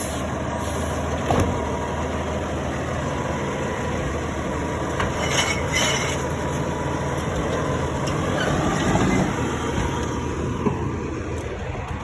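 Garbage truck's diesel engine running steadily with a low hum, with a sharp knock about a second in and two short hissing bursts about five and six seconds in.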